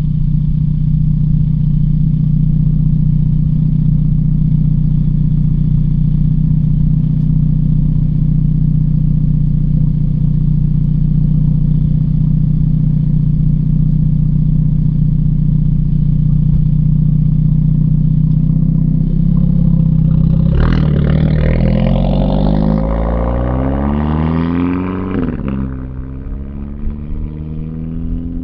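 Hyundai Elantra N's turbocharged four-cylinder engine droning steadily at a constant speed. About twenty seconds in it revs up hard under acceleration, pitch climbing for a few seconds, then backs off and settles to a quieter hum.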